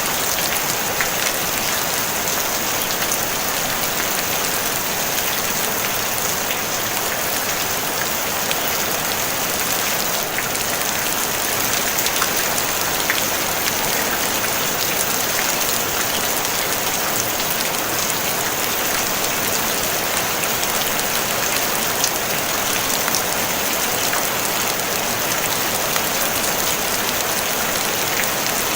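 Steady rain on a tin roof: a dense, even patter of drops hitting sheet metal, with many small individual drop ticks and no thunder.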